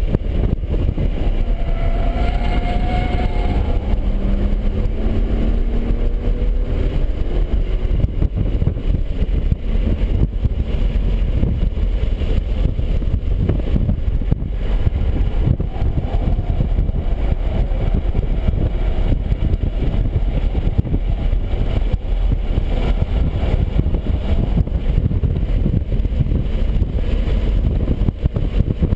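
BMW 135i's turbocharged inline-six running hard at track speed under heavy wind and road noise, its pitch rising for a couple of seconds early on as the car accelerates.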